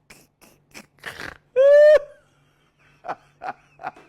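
A large boerboel dog panting in a steady rhythm, about two to three breaths a second. About a second and a half in, it gives one short, loud, high-pitched whine.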